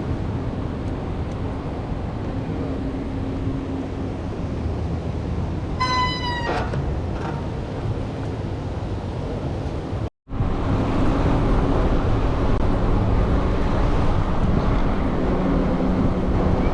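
Wind buffeting the microphone during a bike ride, with road and traffic rumble under it. About six seconds in, a short high-pitched squeal sounds once. Just after ten seconds the sound cuts out for a moment and comes back a little louder.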